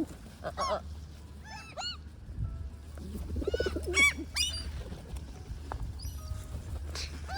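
Gulls calling in short, arching cries, repeated every second or so, with lower bird calls mixed in and a steady low hum underneath.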